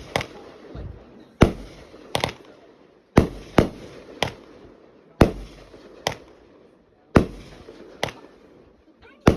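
Fireworks going off: a string of sharp bangs at uneven intervals, about one a second with some pairs close together, each dying away over a fraction of a second.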